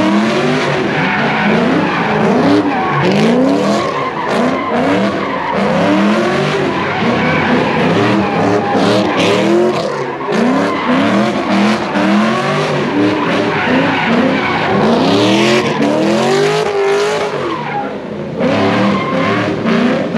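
Car engines revving up and down over and over while the tyres skid and squeal, the sound of cars spinning donuts at a street sideshow.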